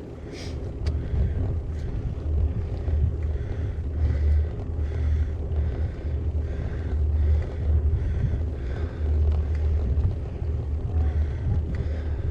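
Wind buffeting the action camera's microphone and tyre noise while riding a gravel bike, a steady, fluctuating low rumble with a soft sound repeating about every two-thirds of a second and a couple of light clicks about a second in.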